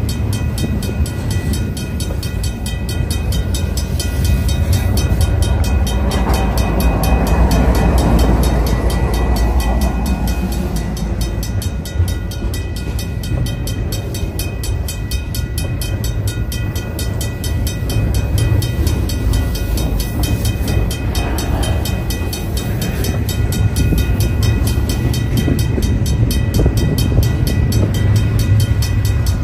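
Double-stacked intermodal well cars of a long freight train rolling past, with a steady low rumble of steel wheels on rail. A level-crossing bell rings steadily behind it.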